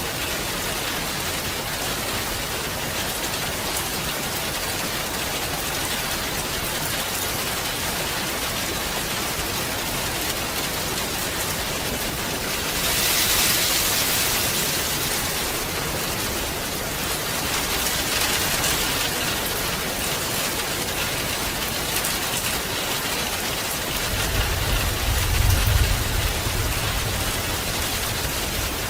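Steady rain falling, an even hiss of drops. About halfway through it briefly swells louder and brighter, and a deep low rumble rises near the end.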